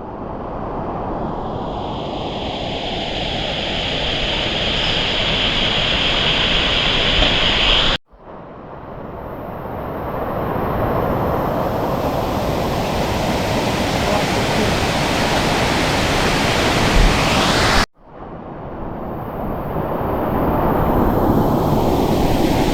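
Rushing water of a waterfall: a steady wash of noise that grows louder through each of three short stretches, broken by two abrupt cuts about eight and eighteen seconds in.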